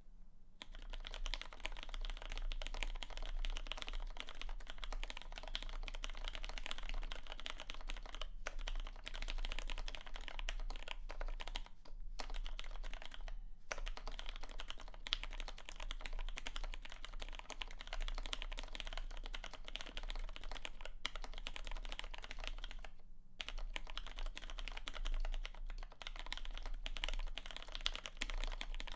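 Continuous fast typing on a Samice mechanical keyboard with an FR4 plate and Ergo Clear switches: a dense run of key clacks that starts about half a second in, with a few brief pauses.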